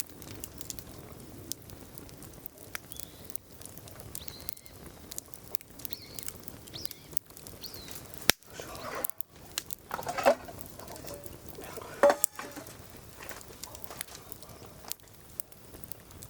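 Wood fire burning, crackling steadily with many small sharp snaps and a few louder pops about eight, ten and twelve seconds in.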